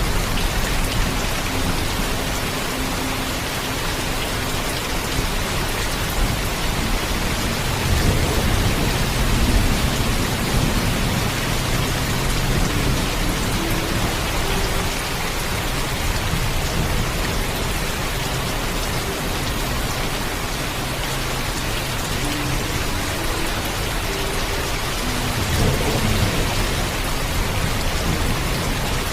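Heavy rain falling steadily, with a low rumble of thunder about eight seconds in and another near the end.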